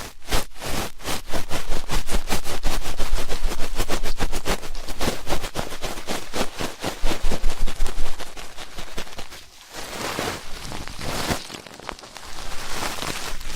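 Ear-cleaning ASMR sounds: an ear pick scraping rapidly against a microphone's ear, several short strokes a second. About nine and a half seconds in the strokes break off, then return as slower, broader scratches.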